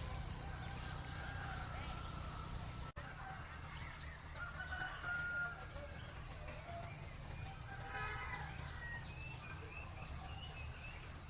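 A rooster crowing once, about eight seconds in, over a steady high-pitched whine and scattered short high chirps.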